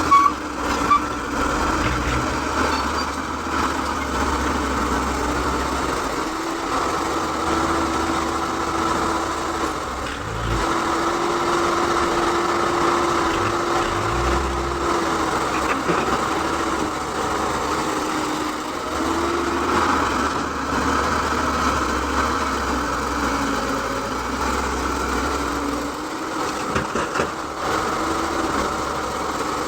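Excavator engine running steadily, its note shifting slightly now and then as the machine works, with a couple of sharp knocks about a second in.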